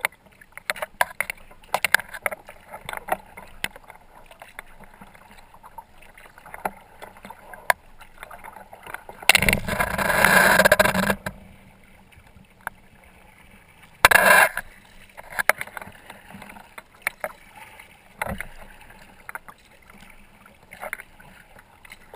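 Kayak paddle strokes on open water: the blades dip and drip in irregular small splashes, with a loud rush of splashing or wind noise lasting about two seconds some nine seconds in and a shorter one about five seconds later.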